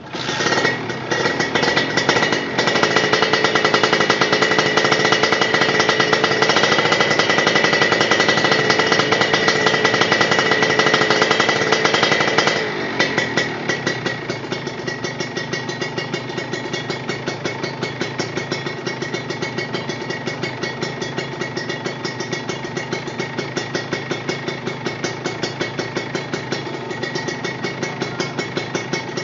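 Engine running through an aftermarket racing muffler: it comes in suddenly, is held at high, steady revs for about twelve seconds, then drops back to a lower, evenly pulsing idle.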